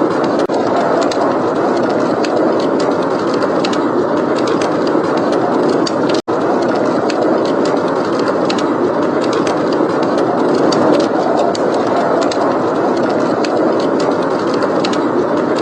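Steady, heavy blizzard wind with a wood fire crackling over it in small, sharp pops. The sound cuts out for a split second about six seconds in.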